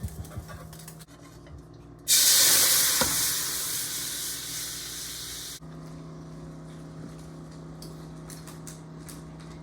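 Food sizzling in a hot pan: a loud hiss that starts suddenly about two seconds in and cuts off about three and a half seconds later, with a faint steady hum before and after.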